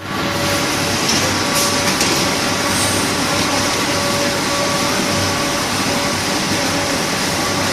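Packing-scale machinery running steadily, a dense mechanical din with a hum that cuts in and out every second or so.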